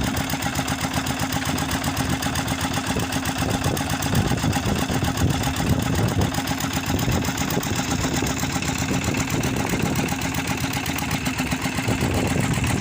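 Engine idling steadily with an even, rapid pulse.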